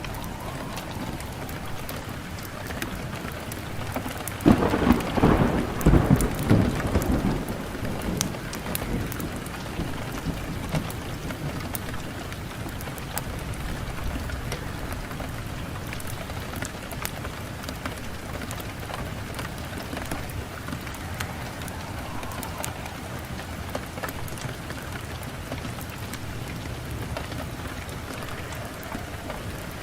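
Wood fire burning in a fireplace, with a steady hiss and many sharp crackles and pops. A louder low rumble swells about four seconds in and fades over the next three seconds.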